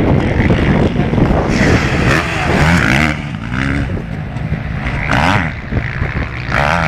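Motocross bike engines racing, their pitch rising and falling as the riders open and close the throttle, over a heavy low rumble.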